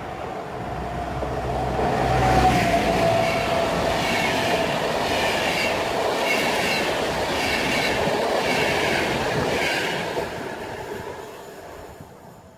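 An electric locomotive hauling passenger coaches passes close at speed. Its hum and whine peak about two seconds in, the whine dropping slightly in pitch. The coaches' wheels then clack in a regular rhythm over the rail joints, fading as the last coach goes by.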